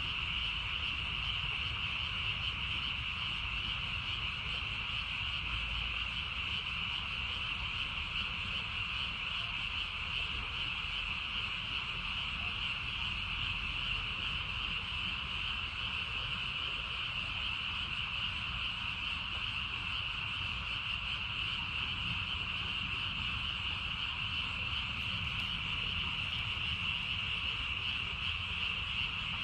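Dense chorus of many Japanese tree frogs calling at once, their calls merging into one steady, high-pitched trill.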